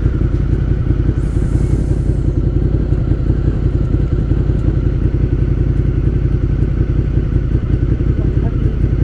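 Motorcycle engine idling steadily, with a brief high hiss about a second in.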